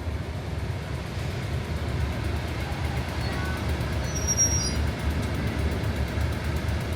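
Steady low rumble of a heritage diesel train running, with a faint brief high-pitched squeak about four seconds in.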